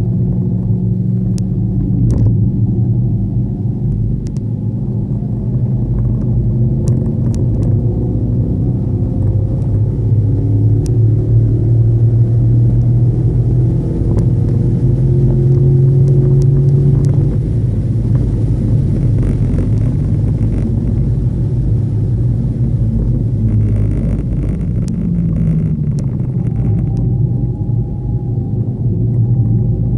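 Car engine running hard at track pace, its note rising and falling as it speeds up and slows, over a heavy low rumble.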